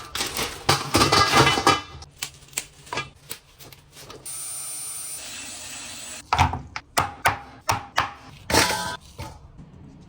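Kitchen food-preparation sounds: irregular knocks and clatter, like a knife and utensils on a wooden chopping board, with a steady hissing noise for about two seconds in the middle.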